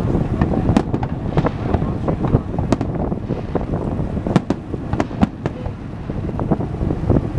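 Aerial fireworks bursting in a string of sharp cracks at irregular intervals, over a steady low rumble of wind on the microphone.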